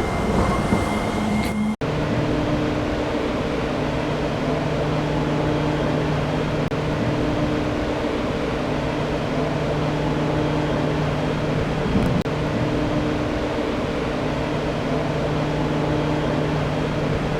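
Hiroshima Electric Railway tram 5101 running, with a steady electric motor hum over rolling noise. There is an abrupt cut about two seconds in and a brief click near the end.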